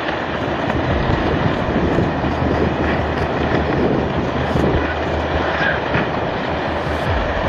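Landslide of earth and houses sliding into the sea, a steady, dense rumbling noise with a faint low hum beneath.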